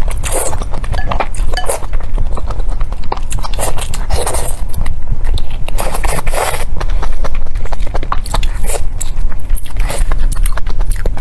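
Close-miked eating: a bite into a cooked green chili pepper, then wet chewing with many small mouth clicks and smacks, and a louder squelching chew every second or two.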